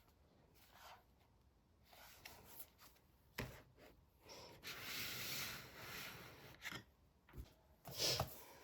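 Quiet handling noises in a small room: scattered rustling and rubbing, a sharp knock a few seconds in, a longer stretch of rustling, and a few sharp taps near the end.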